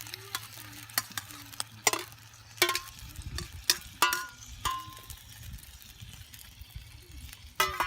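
A utensil stirring in a campfire frying pan, with a string of sharp, ringing metallic clinks against the pan, the loudest around two to four seconds in and again near the end.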